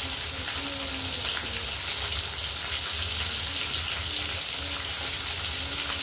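Chicken wings frying in oil in a wok: a steady sizzle with fine crackling.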